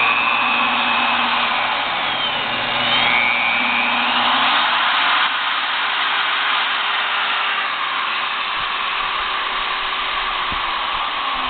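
Milwaukee 4204 magnetic drill press motor running in reverse. Its pitch glides up and down for the first few seconds, then it settles to a steadier, slightly quieter run about five seconds in.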